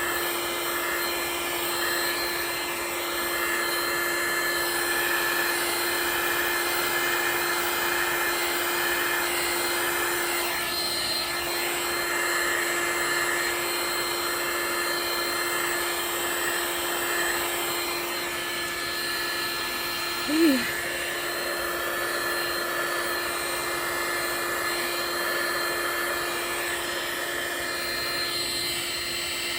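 Handheld hot-air blower running steadily with a constant motor hum, used to push white resin into wave shapes on a coaster. About two-thirds of the way through comes one brief falling squeak.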